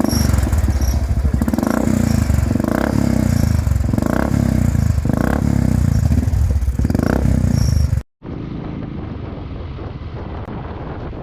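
Royal Enfield Thunderbird 350X's single-cylinder engine running loud through an aftermarket Red Rooster exhaust, with about five throttle swells a little over a second apart. About eight seconds in, the sound cuts out for an instant and continues as a quieter, duller steady engine sound.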